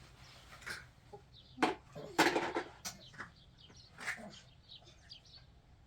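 Chickens clucking: a few short, louder calls in the middle, with many small high chirps in between.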